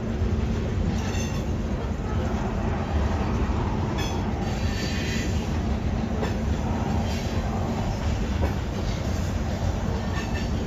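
Freight train of covered hoppers and tank cars rolling past: a steady rumble of steel wheels on the rails, with a few brief high-pitched wheel squeals.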